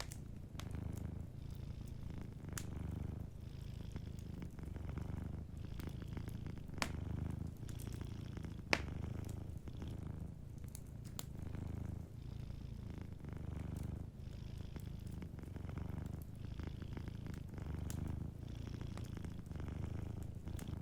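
Domestic cat purring, a low rumble that swells and eases in repeated waves with its breathing. Scattered sharp crackles from a wood fire sound over it, with one louder pop a little before the middle.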